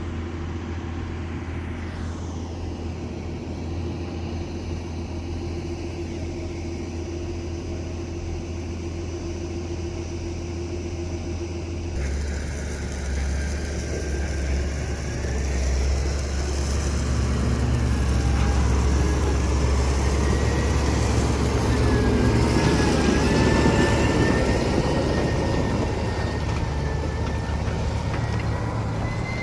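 Heavy diesel harvest machinery running: a steady engine drone that changes abruptly about twelve seconds in to a louder machine with a wavering high whine, which grows to a peak a little past two-thirds of the way through and then eases slightly.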